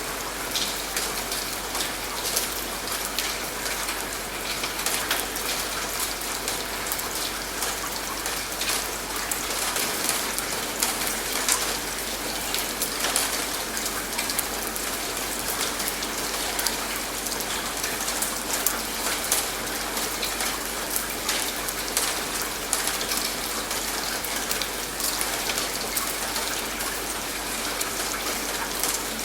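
Steady rain falling, a dense even patter of many separate drops.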